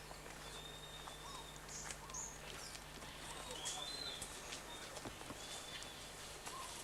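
Birds calling: short high whistled notes repeated about once a second, with faint scattered ticks.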